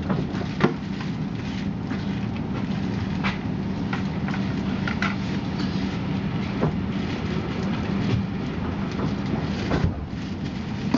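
Steady hum inside a passenger train carriage standing at a station platform, with a few sharp clicks and knocks, the loudest just under a second in.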